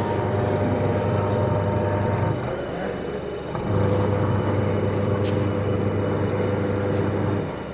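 Semi-automatic washing machine's wash motor humming with the machine in its wash cycle. The hum stops about two and a half seconds in, starts again just over a second later, and stops again near the end, the on-off pattern of the wash motor pausing between runs as it changes direction.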